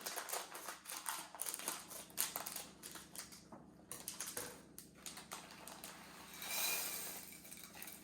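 Scissors snipping and the plastic pouch of macaroni crinkling as it is cut open, a quick run of small clicks and rustles. A brief hissing rush follows about six and a half seconds in.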